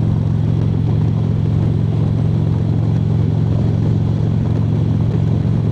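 Harley-Davidson V-twin motorcycle engine running steadily at cruising speed, with no change in pitch or level.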